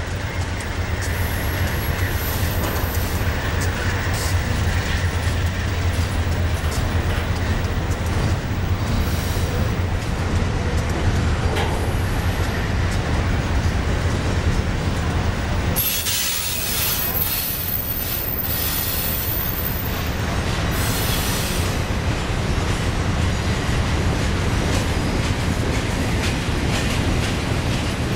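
Double-stack intermodal container well cars of a freight train rolling past with a steady rumble and clatter of wheels on the rails. For a few seconds past the middle, a high-pitched wheel squeal rises over the rumble.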